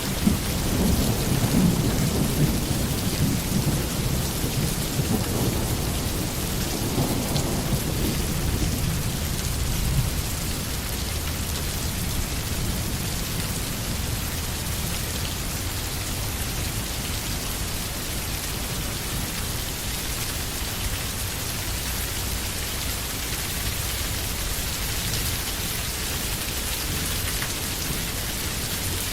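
Steady rain falling on a forest, an even hiss of drops. A low rolling rumble of thunder sits under it during the first ten seconds or so and dies away, leaving only the rain.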